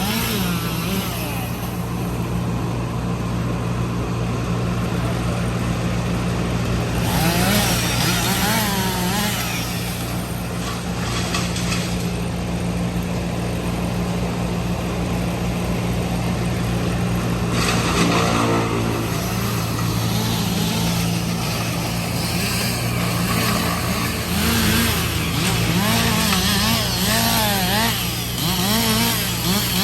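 A large engine of heavy tree-removal equipment running steadily, with a chainsaw cutting at intervals over it.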